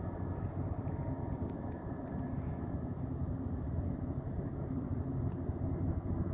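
Diesel freight locomotives climbing the grade, a steady low rumble.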